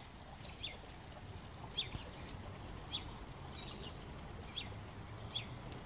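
Small birds chirping: short, downward-sliding chirps about once a second, over a faint low steady hum.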